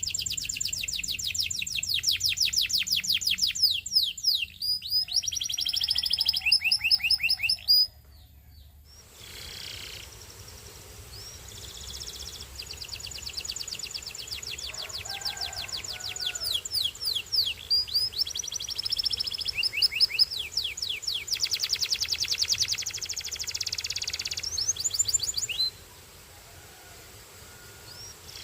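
A domestic canary singing long, fast trills of rapidly repeated high notes in rolling phrases. It breaks off briefly about a third of the way in, then sings again until shortly before the end.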